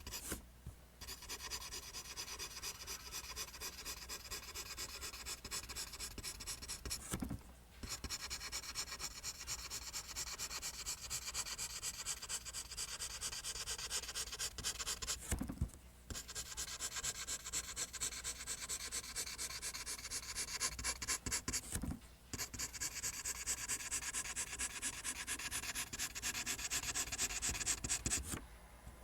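Pencil scratching across paper, drawing lines one after another in a steady run of rapid strokes, with a brief pause about every seven seconds.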